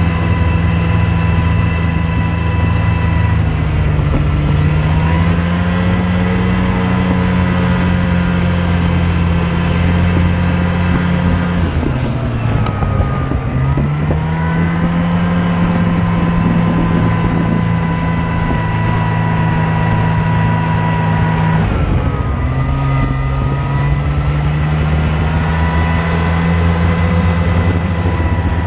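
A vehicle engine running steadily under way, its pitch dipping and then recovering twice, about halfway through and again near three quarters of the way in, as with easing off the throttle or a gear change.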